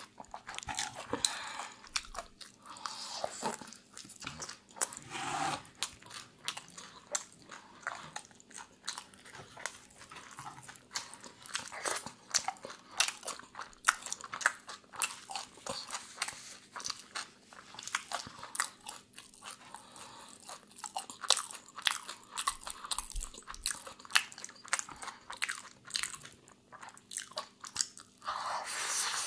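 A person biting and chewing a shawarma wrap with shredded cabbage, close to the microphone: many irregular crisp crunches and mouth sounds.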